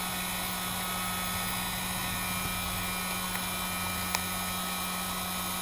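Heat gun running steadily, its fan and airflow giving an even hiss over a steady low hum, with one small click about four seconds in.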